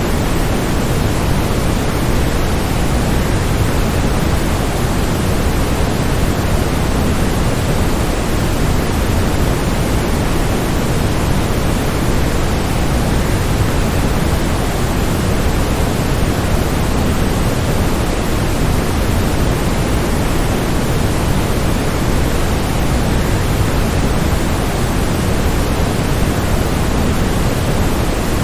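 Waterfall: a steady, unbroken rush of falling water, heaviest in the low end, with no change in level.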